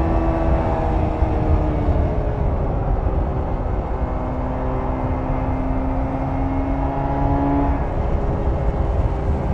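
1994 Jawa 350 type 638 two-stroke twin engine running under way, heard onboard over a heavy low wind rumble. The engine note drops about two seconds in, then climbs slowly for several seconds and falls away again near the end.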